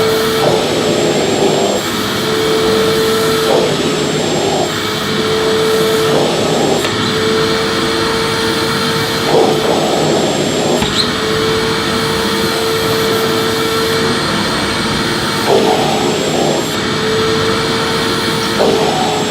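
Electric vacuum cleaner running steadily with a constant motor whine over a rush of air. The sound shifts briefly at irregular moments, several times, as the vacuum is worked back and forth over the floor.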